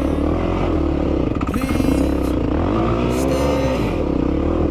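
Yamaha WR250R dirt bike's single-cylinder four-stroke engine running under throttle, its pitch rising and falling twice.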